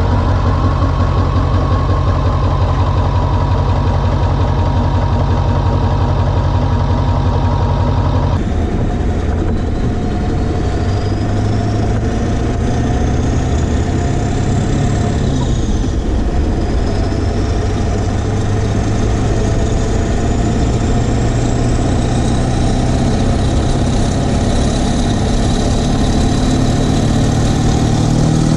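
Ford 7.3 L Powerstroke turbo-diesel V8, fitted with 160 cc 30% over injectors, idling steadily just after start-up. A faint high whistle climbs slowly in pitch over it. The sound changes abruptly about eight seconds in, and near the end the revs begin to rise.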